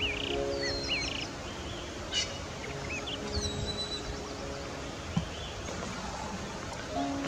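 Small wild birds chirping in short calls that glide up and down, mostly in the first few seconds, over a steady outdoor hiss. Under them runs background music of long held notes.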